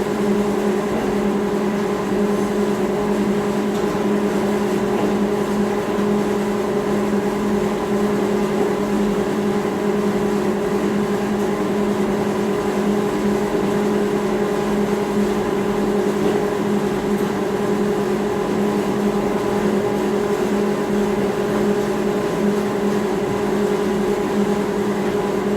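Steady machine hum at one constant pitch, with no breaks or knocks.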